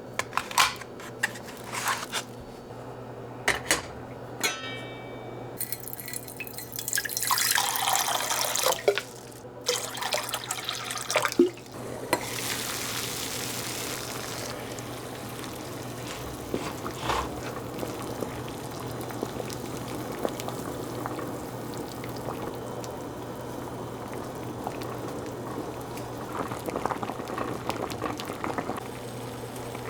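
Water running and pouring, with clicks and knocks of handled kitchenware, then a steady hiss.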